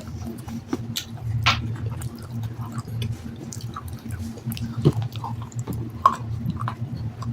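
Close-up chewing and crunching of water-soaked black sandstone: irregular sharp crackles and crunches with small wet squishes, over a steady low hum.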